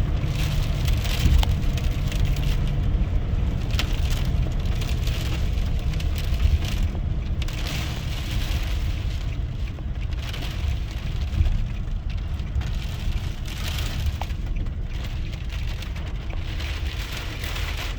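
Car driving, heard from inside the cabin: a steady low rumble of engine and road noise, with a fainter hiss on top.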